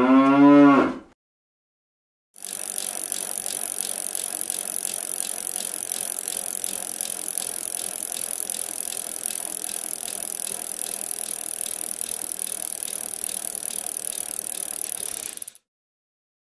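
Bicycle sound effect: a bicycle rolling with a steady fine clicking and rattle for about thirteen seconds, starting a couple of seconds in and cutting off abruptly near the end. It opens on the last second of a cow's moo, rising in pitch.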